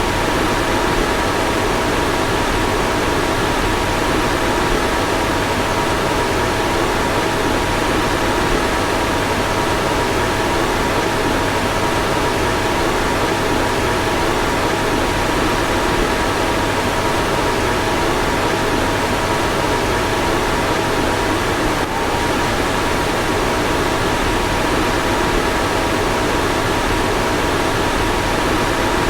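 Car fan running steadily: an even rushing of air with a faint steady whine on top.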